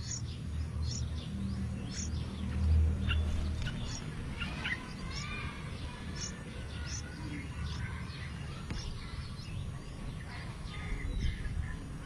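Short, high bird chirps and brief twittering glides, scattered irregularly, over a low rumble that fades out about four seconds in.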